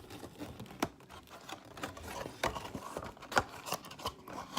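Irregular light clicks and taps of a cardboard trading-card box being handled and opened by hand without tearing it.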